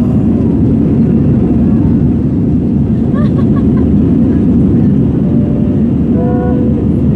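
Steady low rumble of cabin noise inside an Airbus A320 airliner, holding an even level throughout, with faint voices briefly audible twice.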